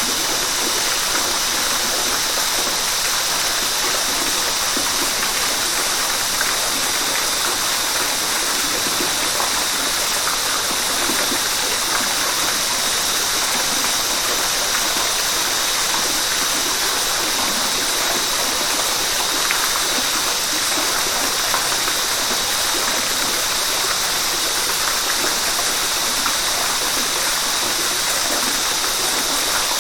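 River water flowing steadily, with a constant high-pitched sound over the rush.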